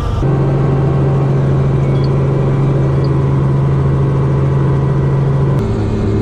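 Robinson R44 helicopter running steadily in flight, a loud, even low hum with overtones. It drops to a slightly lower-pitched hum about five and a half seconds in.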